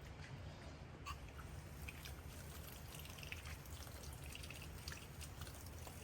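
Rain dripping: scattered, irregular drops falling over a faint, steady low rumble.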